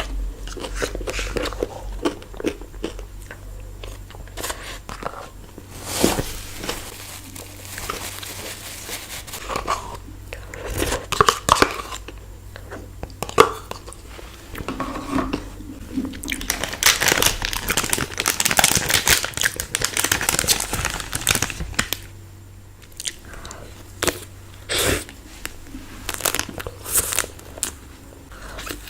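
Close-up biting, crunching and chewing of chocolate-coated ice cream bars, with many irregular sharp cracks as the hard coating breaks. A denser run of crackling comes a little past the middle.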